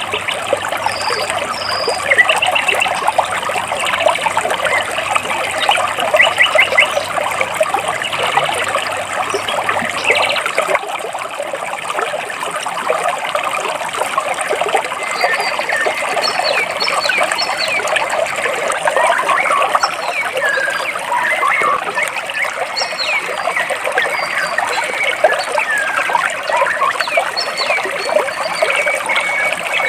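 Water trickling and splashing between rocks in a steady stream, with birds chirping over it.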